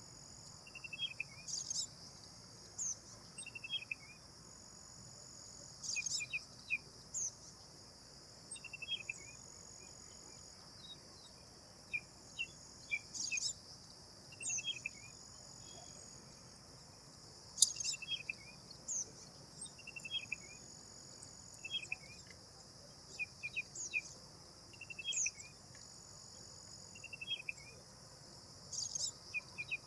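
Bird calling repeatedly: short runs of quick falling notes and sharp high upswept notes every couple of seconds, over a steady high-pitched chorus of crickets.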